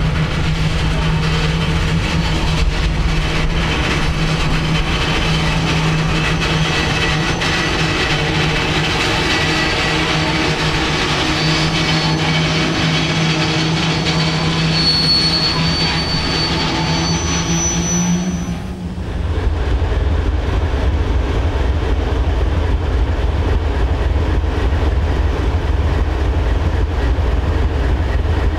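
Freight cars rolling past with steady wheel-on-rail noise and faint high wheel squeal. About two-thirds of the way through, it changes abruptly to the deep rumble of a passing CSX diesel locomotive, a GE unit in Pere Marquette heritage paint.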